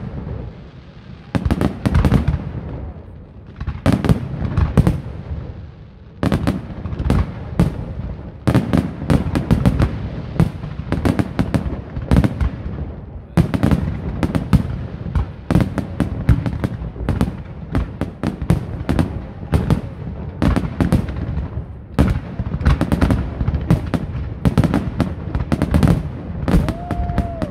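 Aerial fireworks display: a dense, rapid barrage of shell bursts, many bangs a second mixed with crackling, with a few brief lulls.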